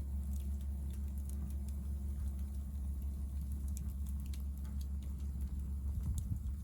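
Hardwood fire burning in a Picogrill fire pit, crackling with scattered small pops and ticks over a steady low rumble.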